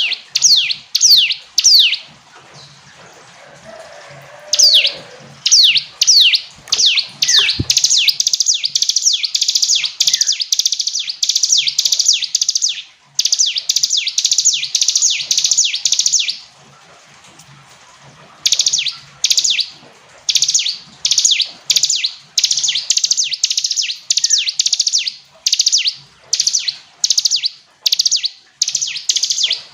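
Ciblek gunung, a prinia, singing loudly: a long run of sharp, high, down-slurred notes, about two a second. In the middle stretch the notes crowd into a near-continuous trill. After a pause of about two seconds, the separate notes resume.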